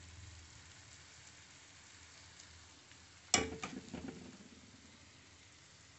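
Faint, steady sizzling of moong dal batter and carrot slices frying in an oiled pan over low heat. A sharp knock about three seconds in is the loudest sound and trails off over about a second.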